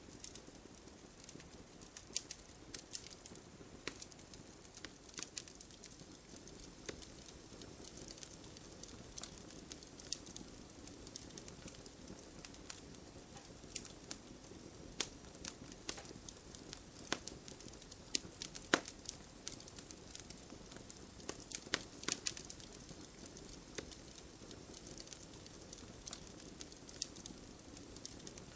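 Wood fire crackling, with irregular sharp pops and snaps, a few of them louder past the middle, over a soft steady hiss of light rain.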